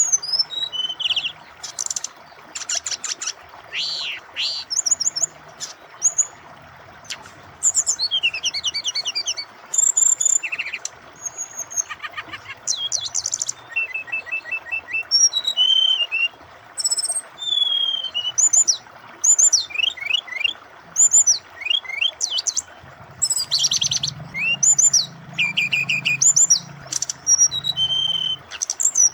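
Brown-chested jungle flycatcher (SRDC) singing a long, varied song of quick whistled phrases, glides and trills, one after another with short gaps. A steady rushing of flowing water runs underneath.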